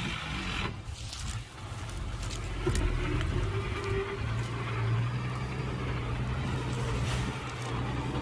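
Diesel engine of heavy earthmoving machinery running steadily, its low hum becoming steadier from about four seconds in, with a few sharp knocks in the first seconds.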